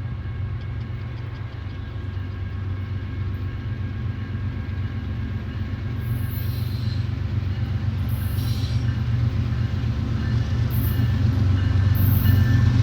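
Diesel-hauled freight train approaching, its low rumble growing steadily louder, with a few short high hisses.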